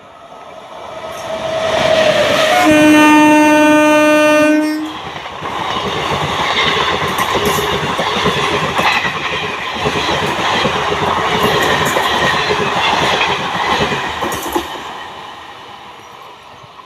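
Indian Railways express train approaching and passing, sounding its horn with one long steady blast of about two seconds, then the coaches rushing past for about ten seconds before the noise fades away.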